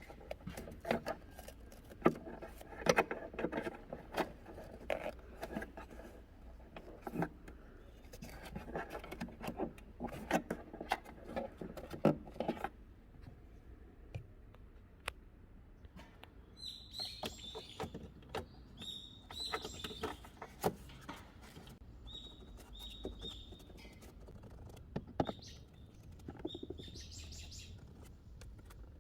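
A run of small clicks and knocks from hand work on parts, then, from a little past halfway, a bird chirping in short high notes.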